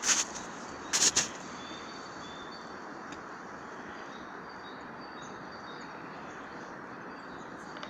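Small birds chirping over a steady rustling hiss of forest air, with two loud sharp crunches in the first second or so.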